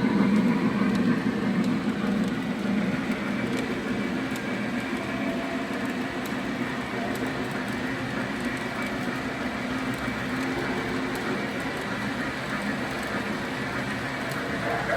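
Lionel O-gauge model steam locomotive running at track speed: a steady rolling rumble of the engine and its wheels on the track, fading somewhat over the first few seconds and then holding even.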